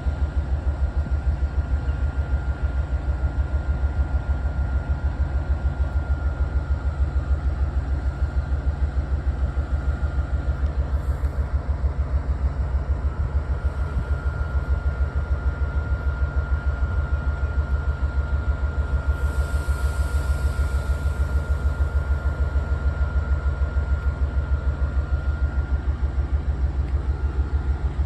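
Louisville & Indiana Railroad train running along, a steady low rumble with a fast, even throb and a faint steady whine above it.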